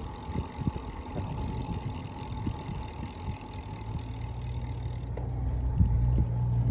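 Vehicle engine running with a low road and wind rumble and occasional low thumps on the microphone; a steady low engine hum comes in about four seconds in and grows louder.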